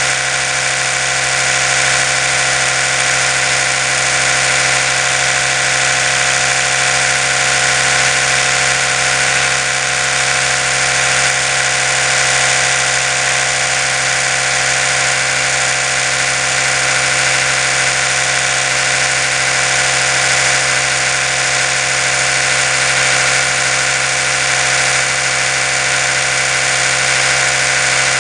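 Oral-B electric toothbrush motor running steadily, a constant hum with a high hiss that never changes in pitch or level.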